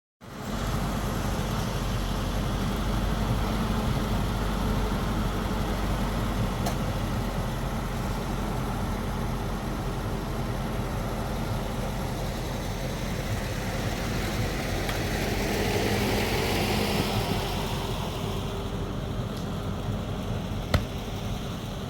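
A motor engine running steadily, swelling a little about fifteen seconds in, with a couple of sharp clicks.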